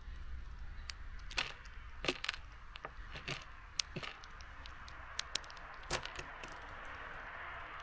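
Small birds pecking and hopping on a bird feeder: a dozen or so sharp, irregular clicks and taps of beaks and feet on seeds and the feeder, over a steady hiss of rain.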